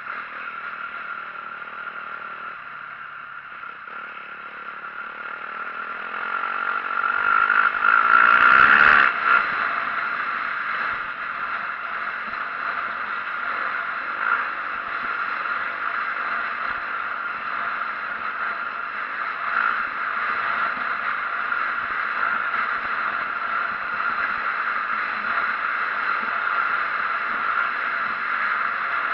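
2004 Yamaha YZ450F four-stroke single-cylinder dirt bike engine running while being ridden. It builds to its loudest about eight seconds in, then runs steadily.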